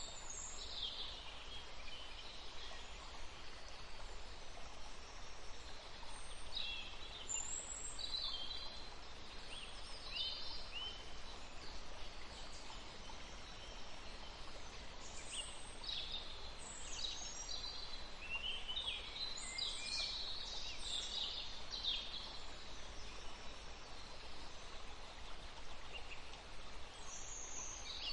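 Forest birds chirping and trilling in short scattered phrases, busiest in the middle of the stretch, over a steady background hiss of forest ambience.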